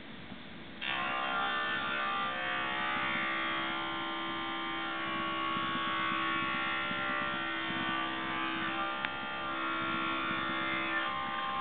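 Small electric power tool motor switched on about a second in and running steadily with a whine.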